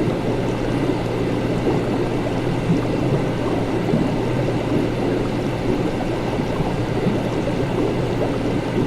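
Laboratory ambience: liquid bubbling and gurgling steadily over a constant low hum.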